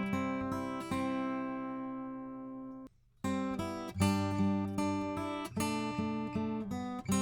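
Recorded acoustic guitar played through a Warm Audio EQP-WA tube equalizer: a few plucked notes, then a chord left to ring and fade. The sound cuts off briefly about three seconds in and the passage starts again, as the demo moves from bypass to a low-frequency boost.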